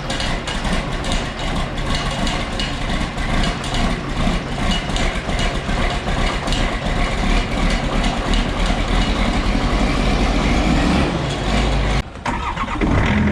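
Engine-driven pressure washer running steadily, with the hiss of its water spray. It cuts off suddenly about twelve seconds in.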